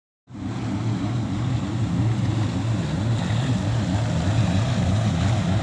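Racing powerboat engines running in a steady low drone whose pitch wavers slightly, over a broad rushing hiss.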